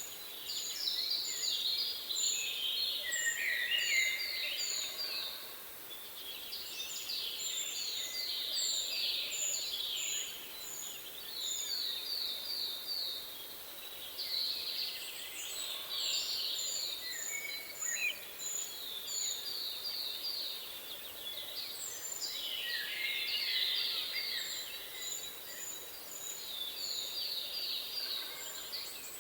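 Several songbirds singing together, with rapid repeated trills and runs of short, thin, high notes coming again and again, over a faint steady hiss of wind.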